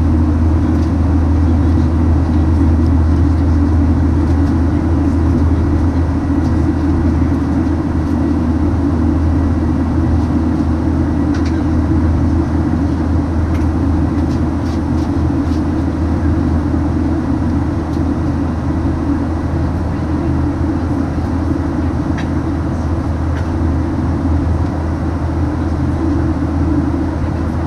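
Steady cabin noise inside a Boeing 737-900, the low rumble of its CFM56-7BE engines and airflow holding constant, with a few faint ticks.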